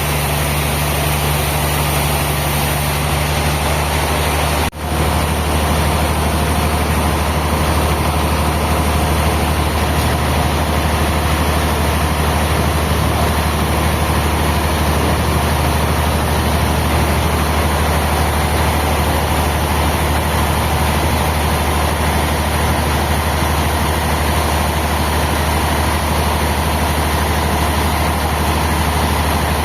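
A heavy engine running steadily at a constant speed, with a brief dropout about five seconds in.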